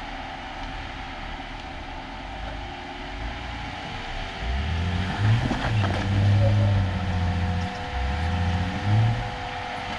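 Off-road vehicle's engine revving in several surges from about four seconds in, its pitch rising and falling under load, over a steady background rumble.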